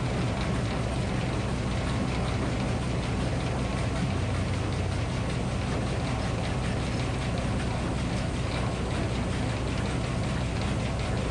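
Minneapolis Moline HEB 605 cubic-inch engine running steadily, driving a Frick circular sawmill, with the mill's steady noise over it.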